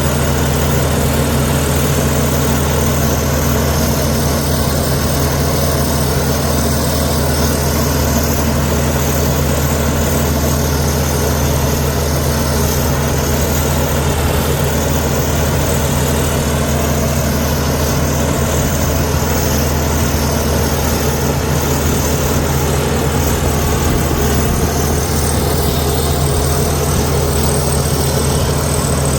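Heavy diesel engine of earthmoving machinery running steadily at an even, unchanging pitch.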